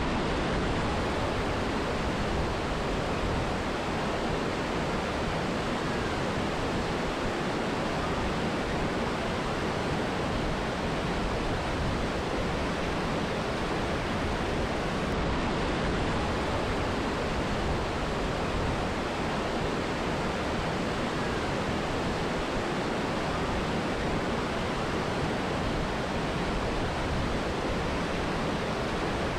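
Steady, even rushing of a mountain river and waterfall, unchanging throughout.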